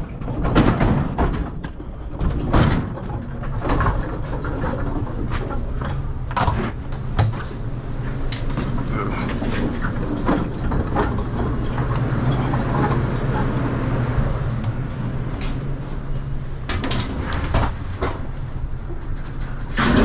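Repeated clanks, rattles and knocks as goods are moved on and off a box truck's lift gate, over a steady low hum.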